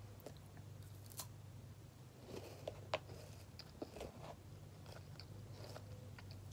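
Faint crunching and clicking of someone chewing a piece of frozen yogurt bark topped with granola, a few separate crunches spread through, over a low steady hum.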